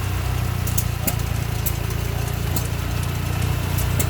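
Small engine running steadily with a low, even drone, with scattered sharp clicks at irregular intervals.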